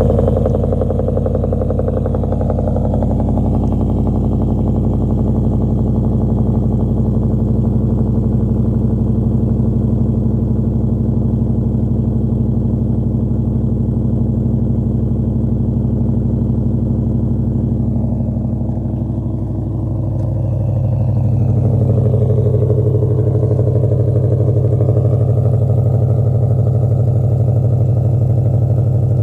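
Coyote-swapped Mustang's V8 idling steadily through a Borla Stinger cat-back exhaust with quad tips. About twenty seconds in, the note shifts and runs a little louder.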